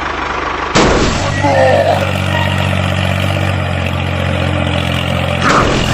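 Mini tractor's motor running with a steady low drone, which sets in suddenly about a second in. A short high squeak comes soon after, and a knock near the end.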